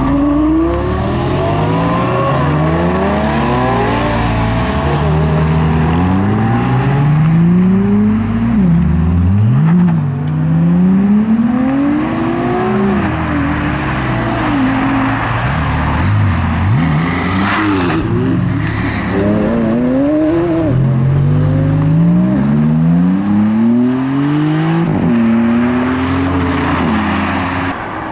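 Supercar engines accelerating hard away, one after another, each revving up in pitch and dropping back at the gear changes, over and over. A short hissy burst comes about two-thirds of the way through.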